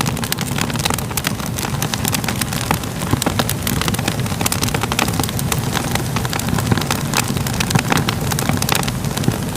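Wood fire crackling steadily, with irregular sharp pops and snaps over a low continuous rumble of the flames.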